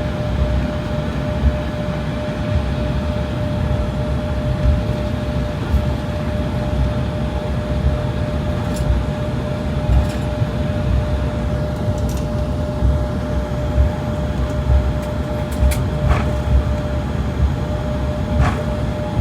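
Airliner cabin noise: a steady low rumble of engines and airflow with a constant hum, and a few light knocks and rattles.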